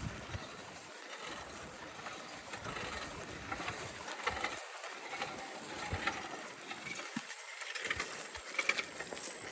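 Bicycle rolling along a dirt trail: a steady crunch and rush of tyres over the ground, with scattered small rattles and clicks.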